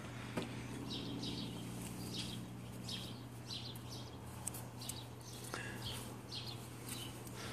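A bird chirping over and over, short high chirps about two a second, over a steady low hum.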